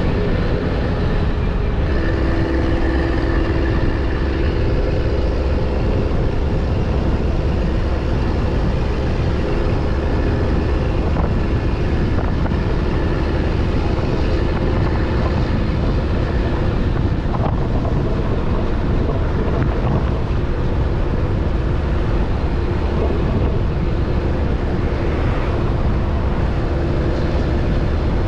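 Steady engine and road noise from a moving vehicle: a constant low rumble with a faint engine hum.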